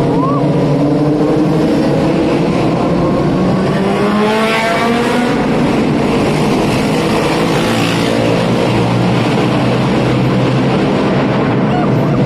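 Superbike engines revving and accelerating on the road, their pitch rising and falling several times over steady road and traffic noise.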